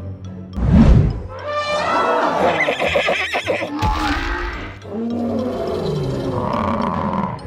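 Cartoon sound effects over background music: a loud low thump about a second in, then a run of animal cries with sliding pitch.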